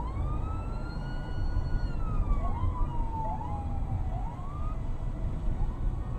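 Emergency vehicle siren: one long wail that rises, holds, then slowly falls, joined from about two seconds in by a second siren's short rising whoops. A steady low rumble runs underneath.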